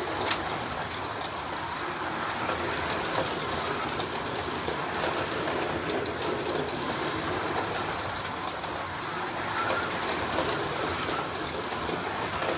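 Carrera Digital 132 slot cars running around a plastic track: a steady whir of small electric motors and rolling tyres, with light ticks from the cars passing over track joints.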